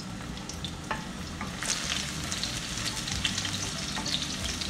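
Garlic and sliced red onion sizzling and crackling in hot oil in a nonstick wok, stirred with a wooden spatula. The sizzle grows louder and denser a little under two seconds in, as the onion hits the oil.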